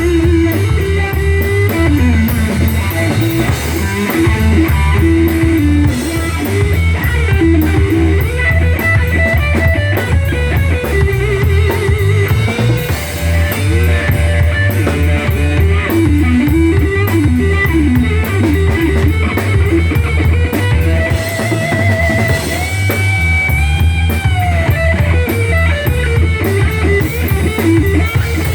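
Live rock band playing: a lead electric guitar with bent and sliding notes over a steady drum kit beat and deep bass.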